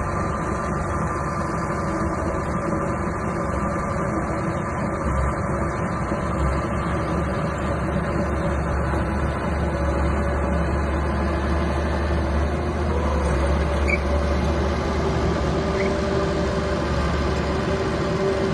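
Mini bulldozer's engine running steadily, with a low rumble; its note shifts slightly about two-thirds of the way through.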